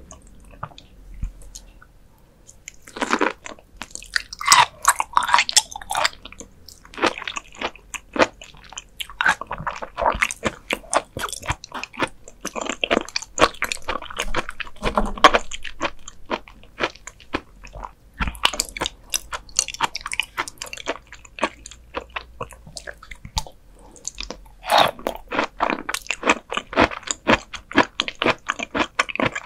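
Raw beef liver being bitten and chewed close to the microphone, with crisp, crunching chews in bursts of a few seconds and short pauses between mouthfuls.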